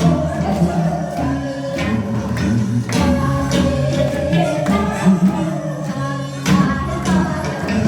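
A singer performing a song over a backing track, with a tambourine jingling on the beat.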